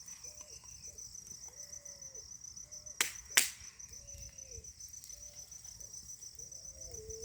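Steady high chirring of crickets, with two sharp clicks about three seconds in, a third of a second apart.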